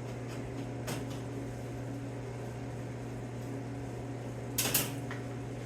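Steady low electrical hum of running shop equipment, with a faint click about a second in and a short, louder noisy clatter near the end.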